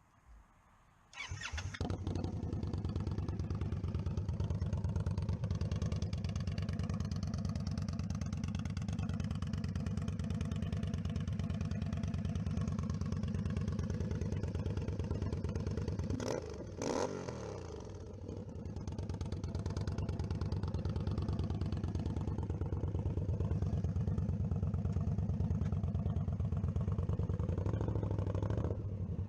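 2018 Indian Scout Bobber's V-twin engine, breathing through a Dirty Bird Concepts aftermarket exhaust, starting about a second in and then idling steadily. Just past the middle there is a brief change where the pitch falls and the engine runs quieter for a couple of seconds before settling back to a steady idle.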